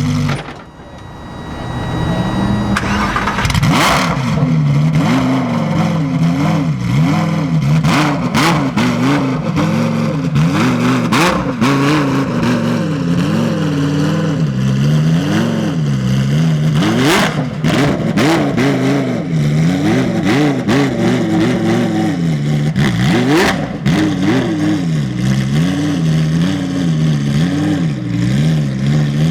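Lamborghini Huracán Super Trofeo race car's V10 engine starting about two seconds in, then revving up and down again and again, with sharp cracks from the exhaust between revs.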